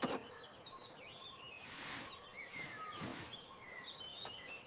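Faint birdsong: scattered short chirps over a soft background hiss, with two brief swishing swells of noise near the middle.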